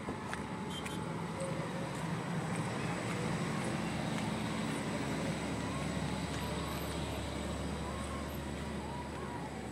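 Steady road traffic noise: motor vehicles running past with a low rumble.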